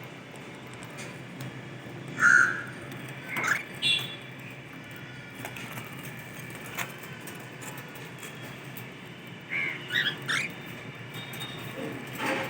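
Cockatiels giving short, harsh calls: one about two seconds in, two more soon after, then a quick cluster of three or four about ten seconds in.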